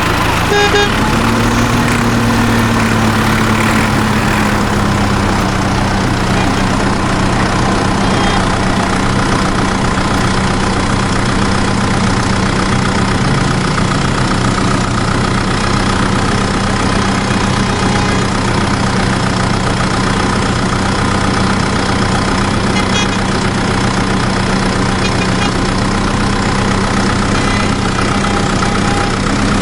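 Vehicle engine idling steadily, its pitch rising slightly about a second in, then holding.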